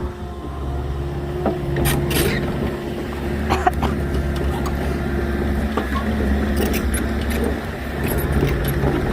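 Small agricultural excavator's diesel engine running steadily, with several sharp knocks and clanks over it.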